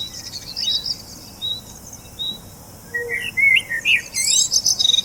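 Songbirds chirping: short high notes repeating every half second or so, with a busier flurry of rising chirps about three to four and a half seconds in.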